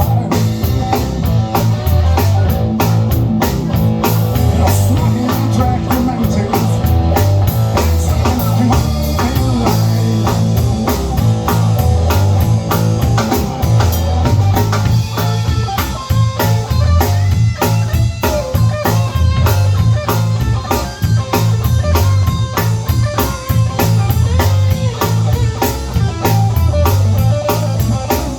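Blues band playing live: guitar over bass and a drum kit keeping a steady beat.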